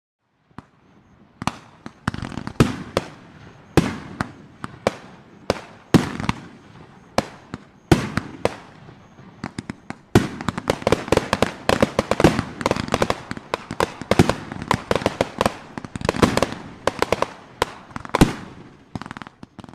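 Fireworks going off: sharp bangs at irregular intervals, roughly one or two a second, then about halfway through a dense run of rapid pops and bangs that carries on almost to the end.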